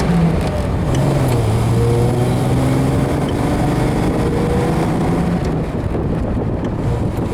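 1974 Triumph TR6's straight-six engine running under way on the road, its note climbing slowly as the car gathers speed, over steady wind and road noise.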